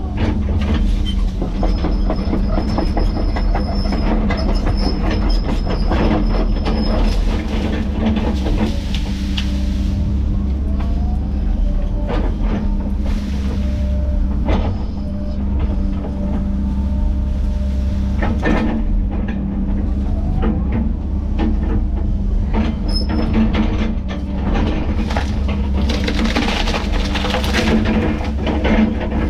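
Heavy tracked diesel machine working, its engine running steadily under load, with repeated metal clanks and knocks from the tracks and attachment, and a high squeal for a few seconds early on.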